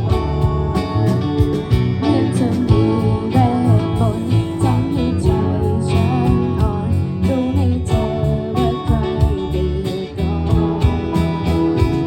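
A band playing a guitar-led section of a pop song, with drums keeping a steady beat.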